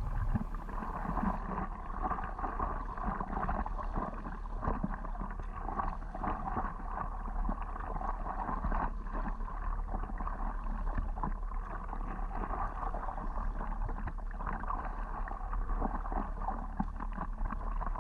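Water splashing and lapping around a stand-up paddleboard out on the water, a steady wash with many small irregular splashes.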